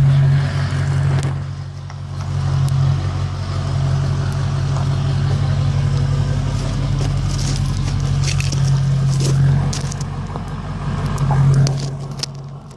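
Truck engine running, a steady low drone with scattered light clicks and rattles over it.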